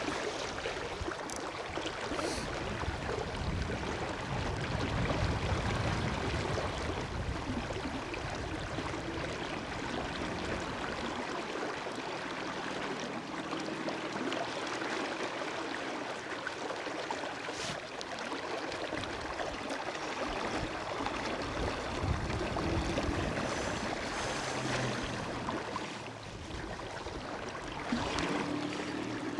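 Shallow river riffle rushing steadily, with gusts of wind buffeting the microphone now and then.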